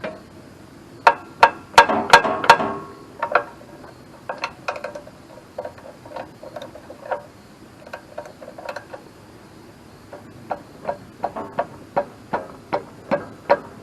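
Metal wrench clinking and clicking against bolts and metal while a starter's mounting bolts are worked loose. There are a few loud, ringing clanks about a second in, and a run of lighter, evenly spaced clicks near the end.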